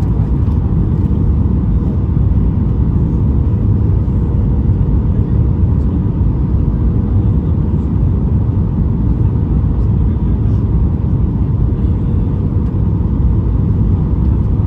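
Steady cabin noise of a Boeing 737 MAX 9 in flight: a deep rumble of airflow and CFM LEAP-1B engines, with a faint, even hum.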